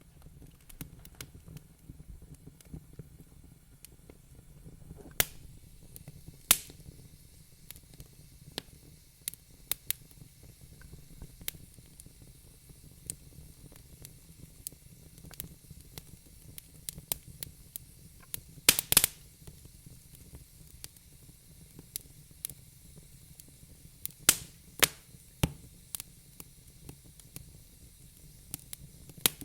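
Wood fire crackling in a fireplace: irregular sharp pops and snaps, a few loud ones, over a low steady rumble and a faint hiss.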